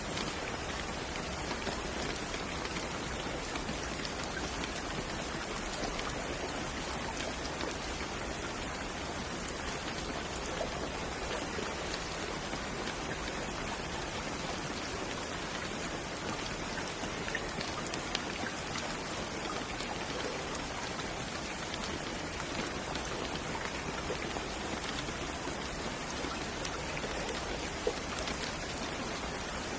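Steady rain falling on a surface, an even hiss with scattered drop ticks and no let-up.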